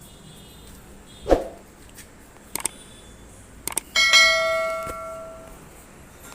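A dull thud, two light clicks, then a metal object struck once and ringing like a bell, the ring dying away over about a second and a half.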